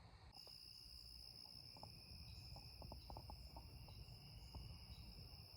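Faint, steady high-pitched insect chorus, with a few faint small ticks in the middle.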